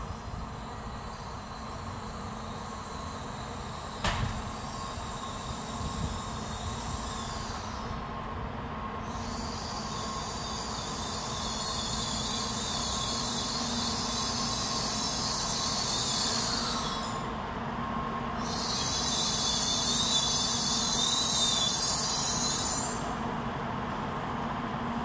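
N700-series Shinkansen train running slowly into the station and drawing to a stop, with a steady rumble and a sharp click about four seconds in. In the second half a loud, high hiss comes in, breaks off briefly and stops again near the end.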